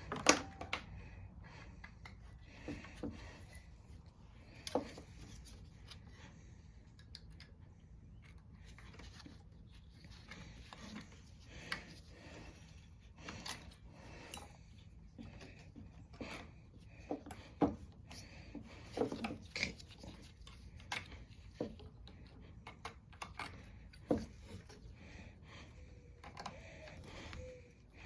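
Scattered light clicks, taps and rubbing of hands and small tools on metal parts while connecting the fuel line and carburetor linkage of a Tecumseh lawn mower engine.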